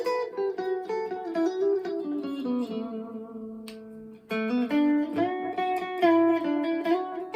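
Electric guitar played through an amp: a run of plucked single notes and chords. The playing thins to near quiet about four seconds in, then resumes.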